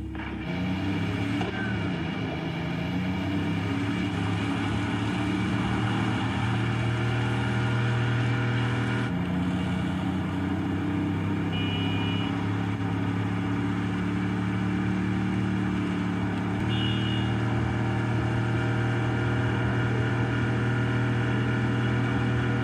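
Car engine sound from video game driving, a steady engine note that jumps abruptly in pitch about 9 seconds in and again about 17 seconds in.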